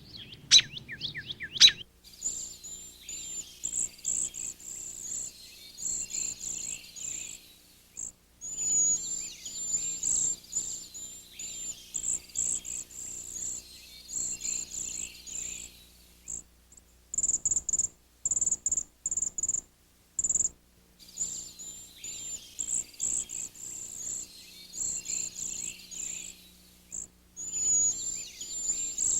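Songbirds calling in a dense chorus of high, rapidly repeated chirps, opening with a few short falling whistles. A run of louder, evenly spaced chirps comes about two thirds of the way through.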